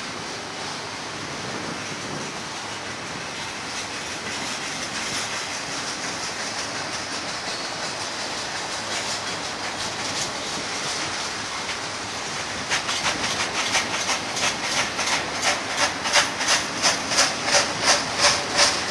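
BNSF double-stack intermodal container train rolling past close by: steady wheel-on-rail noise, then from about two-thirds of the way in a regular clickety-clack of the wheels, about two beats a second.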